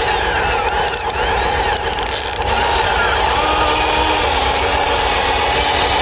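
Radio-controlled model construction machines running: small electric motors and gears whining, their pitch rising and falling as they speed up and slow down, over a steady drone.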